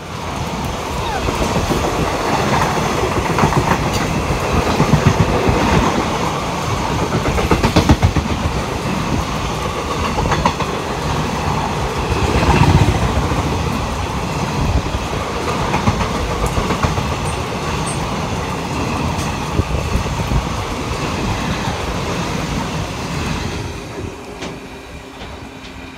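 Indian Railways passenger coaches passing close alongside a moving train, heard from its open door: a loud rushing noise with rapid wheel clatter on the rails. The noise drops near the end as the passing train clears.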